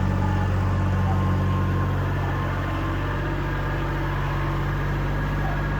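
Diesel engine running steadily at a constant speed, with no revving or change in load.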